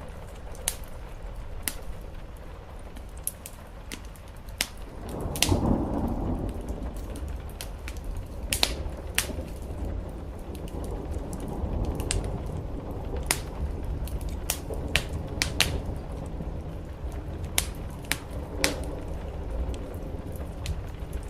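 Wood fire crackling with irregular sharp pops, over steady rain and a low rumble that swells about five seconds in.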